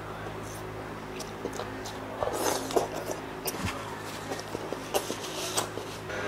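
Chewing of crispy pata (deep-fried pork leg): wet mouth noises with scattered clicks, busier from about two seconds in.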